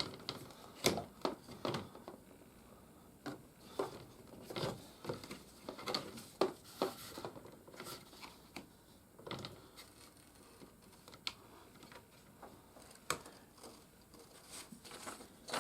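Hard plastic toy playset pieces being handled and pressed together by their tabs: irregular small clicks and knocks with light rustling.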